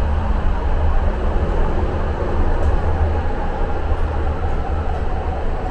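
Muni Metro light-rail train running through the subway tunnel, heard from inside the car: a steady low rumble with wheel and rail noise.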